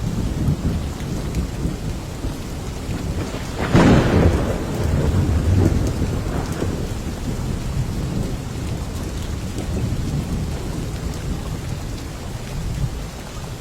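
Steady heavy rain with a low rumble of thunder. About four seconds in, a sharp thunderclap cracks, then rolls on and fades over several seconds.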